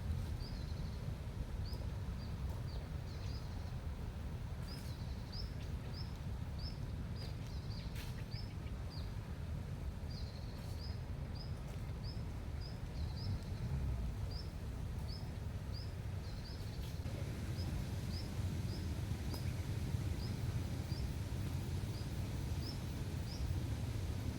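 A small bird chirping over and over, short high chirps about twice a second that grow sparser near the end, over a steady low outdoor rumble.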